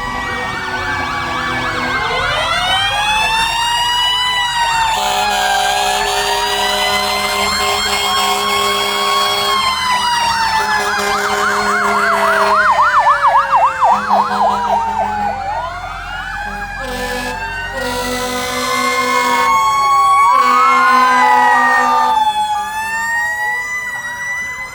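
Several fire truck sirens wailing at once, rising and falling out of step with one another, with a fast yelp about halfway through as the loudest part. Two long steady horn blasts sound under the sirens.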